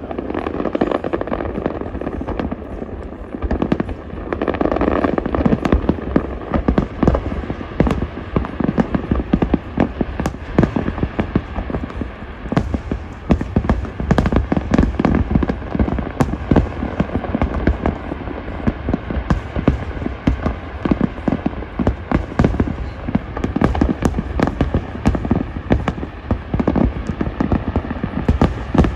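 Large fireworks display: shells bursting in a continuous rapid barrage of bangs, several a second, over a steady low rumble.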